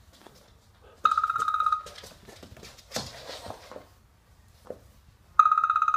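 Electronic trilling ring, a fast-pulsing high tone sounding twice, each ring under a second long, about four seconds apart.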